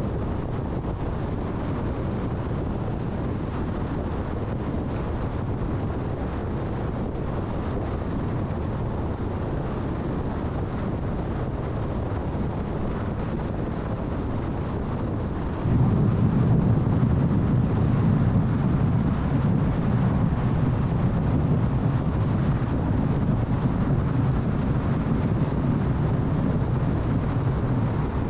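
Steady tyre and wind noise of a car cruising on a freeway. About halfway through, the low rumble steps up suddenly and stays louder.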